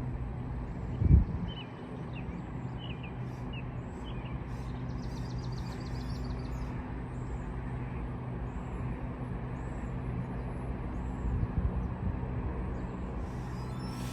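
Diesel locomotive engine running steadily at an even pitch, with a low thump about a second in and another later on. Faint bird chirps sound over it.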